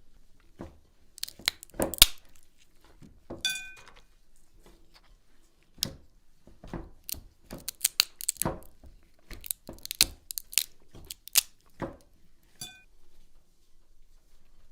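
Irregular knocks, clicks and rustles of hands working with cooking utensils and ingredients, loudest about two seconds in, with two brief ringing clinks.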